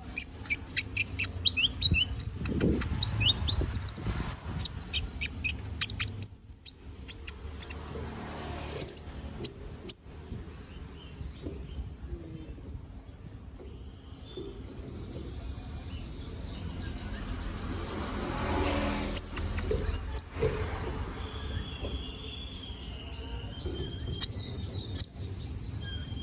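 Kolibri ninja (konin), a small sunbird, singing hard in full song: rapid runs of sharp, high chirps and clicks for about the first ten seconds, then sparser calls, with a short whistled note near the end, over a low steady background rumble.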